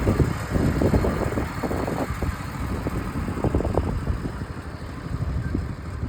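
Antique farm tractor engines running at idle, a low, uneven rumble.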